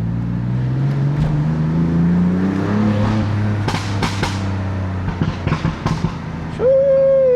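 A BMW F80 M3's twin-turbo S55 inline-six accelerates, its pitch climbing for about three seconds, then lifts off with a few sharp exhaust pops and crackles. Near the end a car horn gives one loud, steady honk of under a second at an oncoming car drifting over the centre line.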